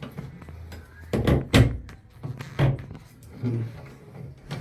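A few sharp knocks and thumps of hard objects being handled and set down, the loudest two close together a little over a second in, another a second later.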